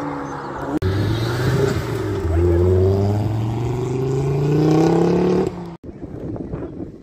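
A sports car's engine revving hard as it accelerates away, its note climbing steadily for a few seconds, then cutting off abruptly about six seconds in.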